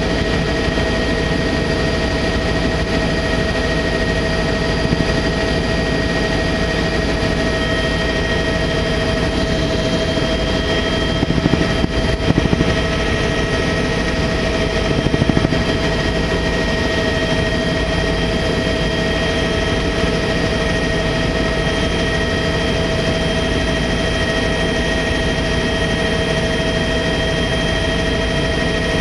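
Tour helicopter in steady cruise, heard from inside the cabin: a constant loud drone with a steady high whine over it. A few brief louder bumps come about halfway through.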